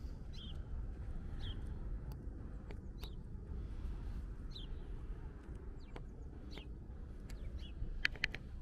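Small birds chirping, short falling calls about once a second, over a steady low background rumble. A quick run of sharp clicks about eight seconds in.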